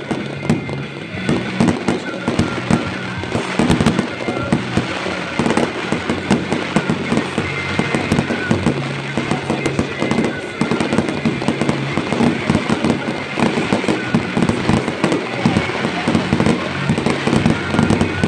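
Aerial firework cake firing shell after shell: a rapid, near-continuous run of launch thumps and sharp bursts. Music plays along underneath.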